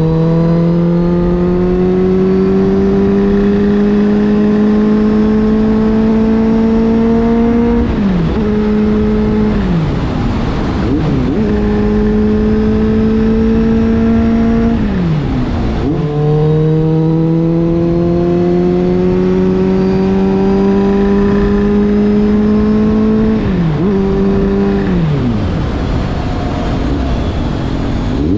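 Kawasaki Z800 inline-four through a Giannelli aftermarket exhaust, ridden on the road. The engine note climbs slowly under throttle, then drops sharply at each gear change, about 8 s and 16 s in and again near the end. It falls away with the throttle closed around 10 s and 25 s in.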